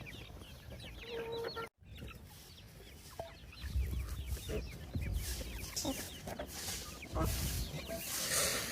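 Chickens clucking with chicks peeping in many short high falling chirps. The sound cuts out briefly just before two seconds in, and low rumbling joins the calls in the second half.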